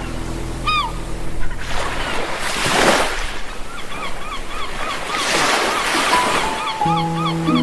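Sea waves washing onto a beach, two swells of surf rising and falling. A small call repeats about three times a second through the second half, with one louder call about a second in. A soft sustained music chord fades out early and comes back near the end.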